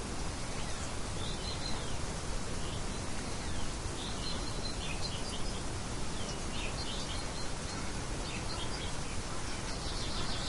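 Birds chirping in short scattered bursts over a steady outdoor noise bed.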